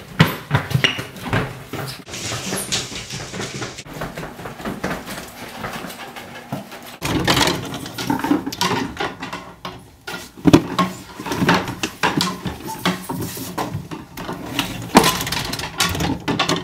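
Hurried rummaging: a rapid string of knocks, clatters and thuds as objects are moved and tossed about in a frantic search, with hurried footsteps.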